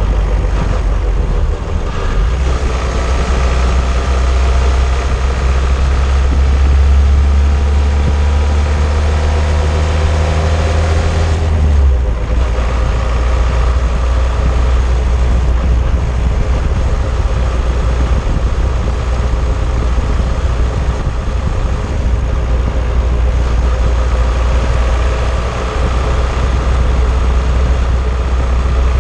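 Old car driving, heard from underneath at the suspension: heavy, steady road and tyre rumble mixed with the engine. The engine note climbs for about ten seconds, then drops suddenly about twelve seconds in.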